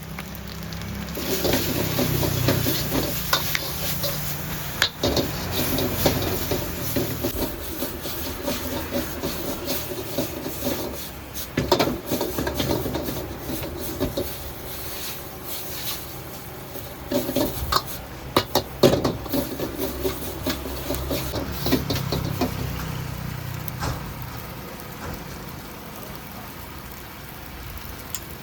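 Food stir-frying: a metal spatula scraping and clanking against the pan over a steady sizzle, with sharp knocks clustered near the middle and again about two-thirds of the way through.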